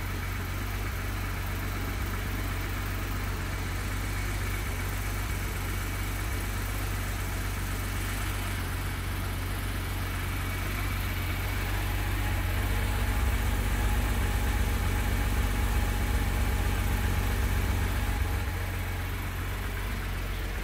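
2019 Porsche 911 GT3 RS's naturally aspirated 4.0-litre flat-six idling steadily through its centre exhaust, a deep even rumble that swells a little louder midway and then settles.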